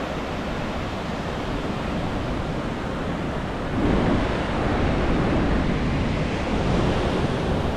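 Ocean surf washing onto a beach, with wind rumbling on the microphone; the rush grows louder about four seconds in.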